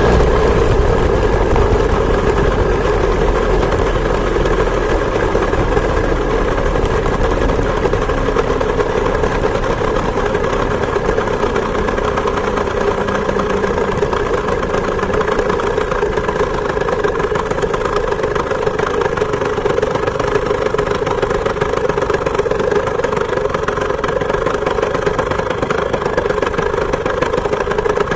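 Two-stroke chainsaw engine of a homemade moped running steadily at an even speed, close to the microphone.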